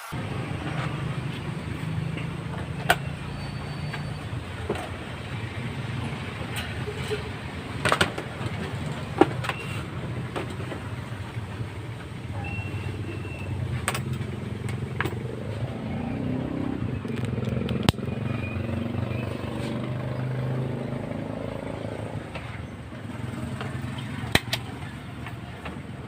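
Repaired standard electric fan running with a steady low motor hum, spinning smoothly. Several sharp clicks stand out over the hum.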